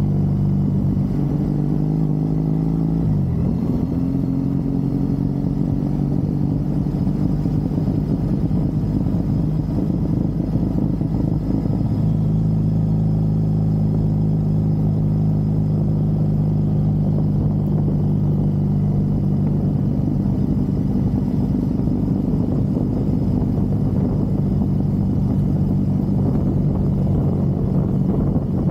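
Triumph Bonneville parallel-twin motorcycle engine running steadily under way. Its note shifts sharply about three seconds in and again about twelve seconds in.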